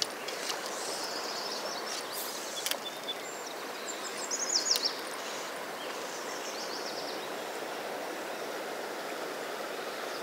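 Steady rush of river current flowing around a wading angler. About halfway through, a few short high chirps cut in briefly.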